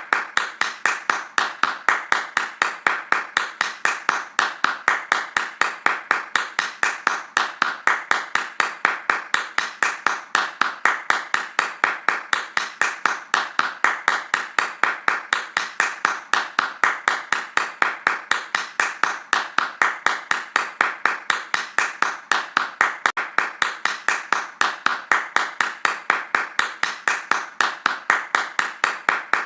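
Hands clapping fast in a steady, even rhythm, each clap a sharp crack, with no pause or change.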